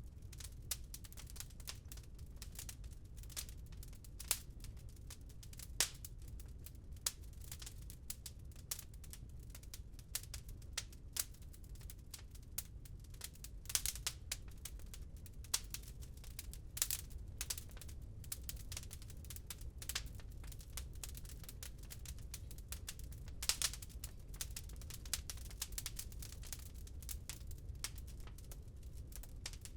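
Wood fire in a fireplace crackling, with a steady run of small irregular snaps and a louder pop every few seconds over a steady low rumble.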